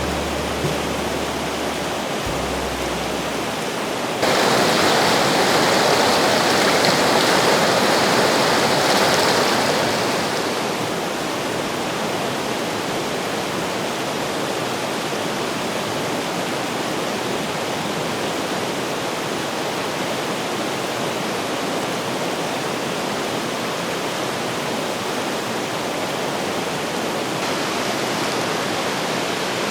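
Mountain river rushing steadily over rocks, with a louder stretch from about four to ten seconds in. A few low sustained music notes fade out early in the clip.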